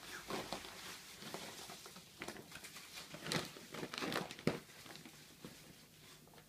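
A beagle rooting and eating in bird seed: irregular rustling and crunching, with the loudest bursts past the middle.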